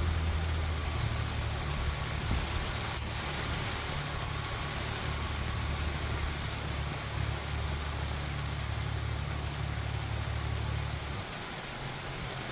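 Steady rain falling, with a low rumble underneath that eases near the end.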